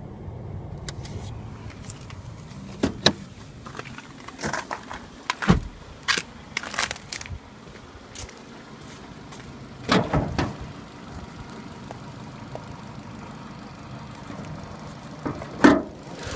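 Car with irregular sharp knocks and clunks over a low, steady rumble: a cluster in the first half, a louder pair about ten seconds in and another knock near the end. The source of the knocks is unidentified; they are the fault the owner is asking about.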